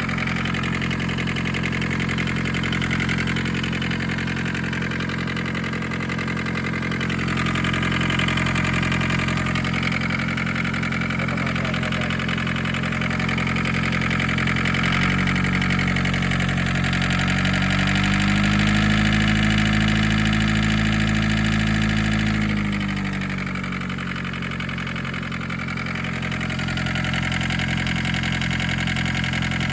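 1981 Isuzu Pup's four-cylinder diesel engine idling steadily. About halfway through it is revved briefly: the pitch rises, holds for a few seconds, then drops back to idle.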